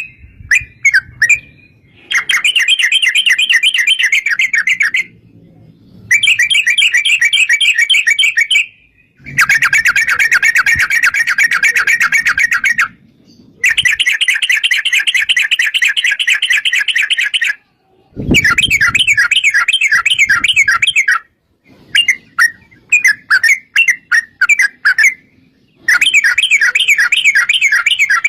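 Yellow-vented bulbul (trucukan) singing long, rapid rolling trills, the 'ropel panjang' song used as a lure to set other bulbuls singing. Several bouts of about three seconds each, broken by short gaps and a few separate chirps.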